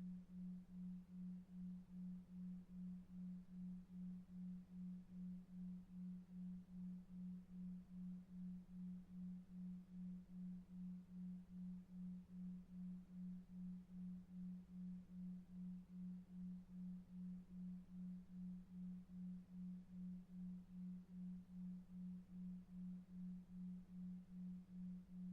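A low, pure electronic tone pulsing evenly about two and a half times a second, a 2.5 Hz delta-wave sleep tone, over faint brown noise.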